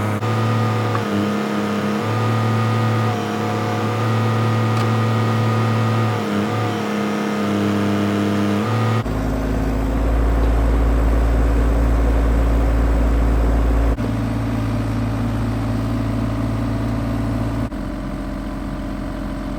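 Bobcat E32 mini excavator's diesel engine running under working load, its pitch dipping and recovering again and again as the hydraulics take load. About halfway through, the sound changes abruptly to a lower, heavier drone.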